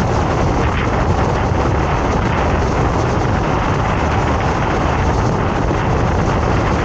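Passenger train coach running on the track: a loud, steady rumble and rush of wheel and wind noise.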